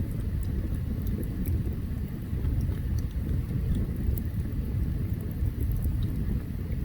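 Open campfire burning: a steady low rumble with sparse, faint high crackles and pops scattered through it.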